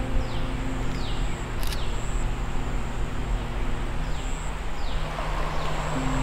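Short, falling bird chirps repeating every second or so over a low, steady drone whose pitch shifts a little past the middle, with a single click near the start.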